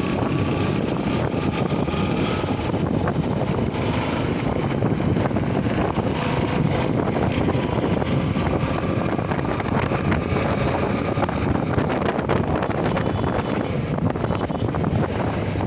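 Honda Shine SP 125's single-cylinder four-stroke engine running steadily on the move, mixed with heavy wind rushing over the microphone.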